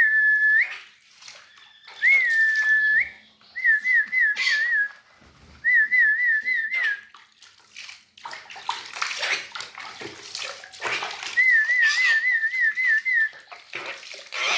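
Whistling around a pet jalak (starling) being coaxed to bathe: a held high note, then several runs of quick rippling trills. Water splashes through the second half.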